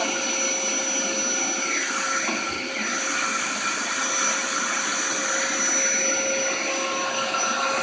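Dyson vacuum cleaner running steadily, with a steady whine over the rush of air.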